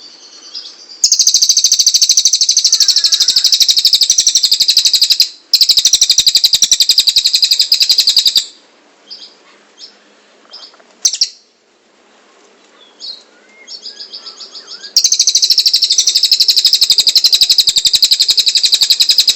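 Cililin bird singing loud, very rapid high trills lasting several seconds each, three of them, with a softer trill and scattered short chirps in the gap between.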